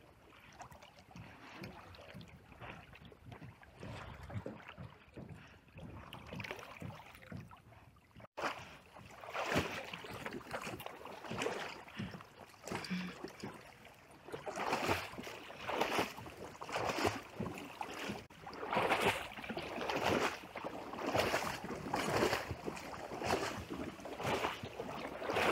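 A horse wading through shallow sea water, its legs splashing in a steady rhythm of about one to two splashes a second, louder from about a third of the way in.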